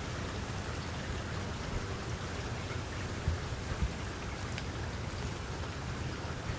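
Steady rain with scattered individual drops ticking, and two short low thumps about three and four seconds in.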